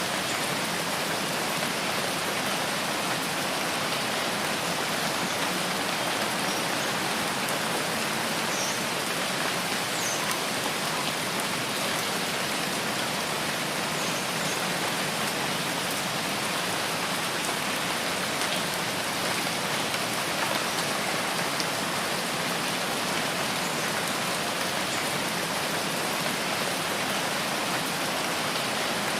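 Steady rain falling in a rainforest, an even hiss that holds without let-up.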